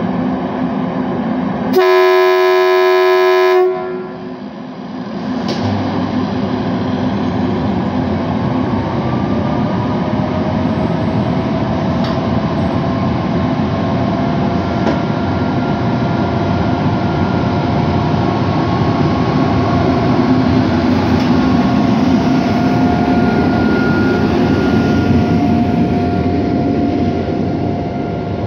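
Electric locomotive pulling a passenger train out of the station: a horn blast of about two seconds near the start, then the steady rumble of the train moving off, with a thin whine that slowly rises in pitch as it gathers speed.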